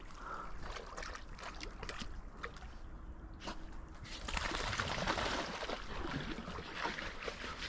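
Hunting dog lapping water: a run of quick, irregular wet laps and splashes, busier and louder from about four seconds in.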